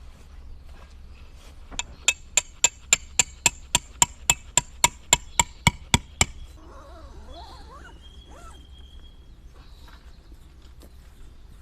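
Hammer blows on metal, about sixteen sharp ringing strikes at a quick even pace of three or four a second, which stop suddenly.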